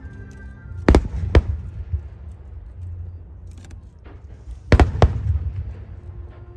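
Aerial firework shells bursting: two pairs of sharp bangs, one pair about a second in and another near five seconds, each followed by a low rumbling echo.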